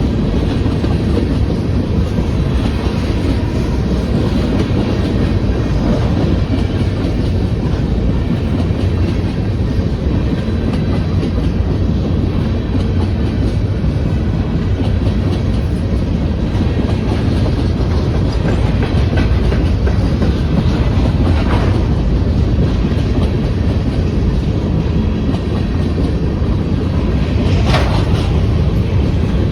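Freight train of empty grain hopper cars rolling past at speed, steel wheels clacking over the rail joints over a steady rumble. A brief sharp sound cuts through near the end.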